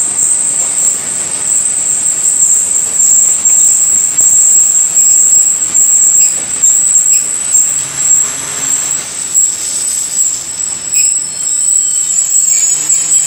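Passenger train coaches rolling slowly with one steady, high-pitched wheel and brake squeal over the rumble of the wheels on the rails, as the train slows nearly to a stop.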